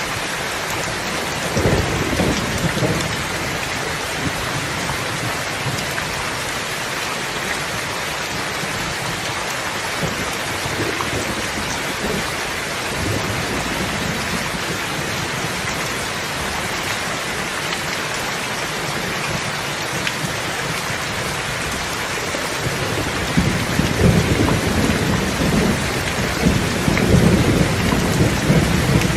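Steady heavy rain falling, with low rolls of thunder: a short rumble about two seconds in, and a longer, louder one building through the last several seconds.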